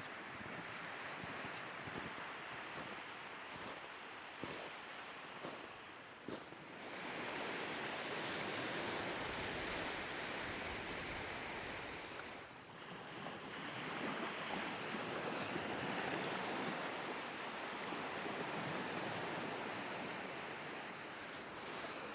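Sea surf washing against the shore, swelling and easing, with some wind.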